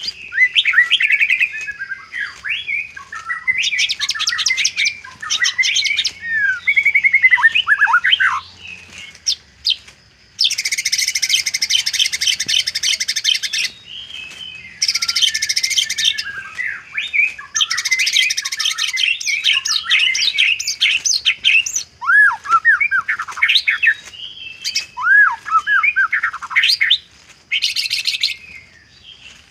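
White-rumped shama (murai batu) singing an 'isian' song, one packed with learned and mimicked phrases. Clear whistled notes slide up and down, alternating with several stretches of rapid, harsh rattling trills; the longest trill lasts about three seconds and comes about a third of the way in.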